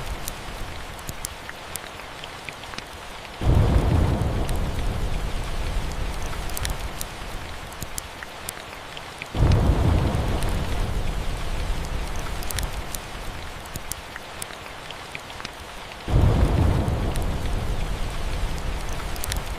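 Steady rain with three rolls of thunder, about 3, 9 and 16 seconds in, each starting suddenly and fading away over several seconds. Sharp crackles from a fireplace run through it.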